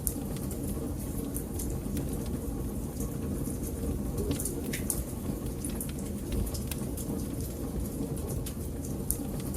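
Wood fire burning in a fireplace: a steady low rumble of flames with irregular crackles and pops, a few sharper pops about halfway through and near the end.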